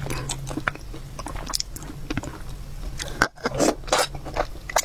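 Close-miked eating sounds: irregular chewing and biting with small wet clicks and crunches, broken by a brief gap a little past three seconds in.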